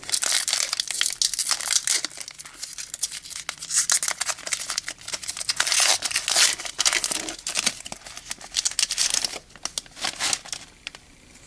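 Foil wrapper of a 2013 Topps Series 2 hobby pack crinkling and tearing as the pack is ripped open, a dense crackle that dies down near the end.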